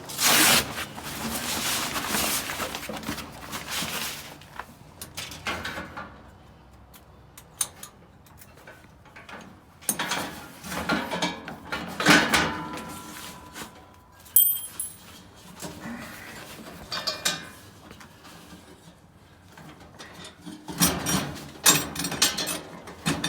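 Knocks, clunks and scraping as a propane cylinder is handled and unhooked from a gas barbecue grill, with a loud rushing noise lasting a few seconds near the start.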